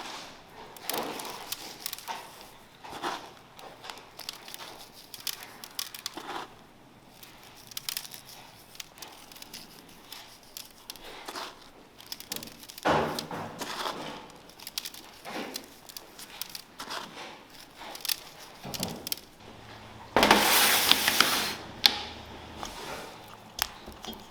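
Scattered clicks, taps and knocks of things being handled, with a loud hissing rush lasting about a second and a half near the end.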